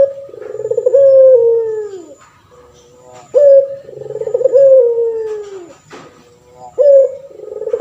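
Male puter pelung dove cooing, three times about every three and a half seconds. Each call is a sharp opening note followed by a long, drawn-out coo that slides down in pitch.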